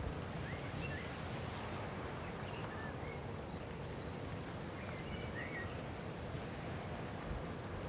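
Small birds chirping now and then, short high calls scattered over a steady low outdoor rumble.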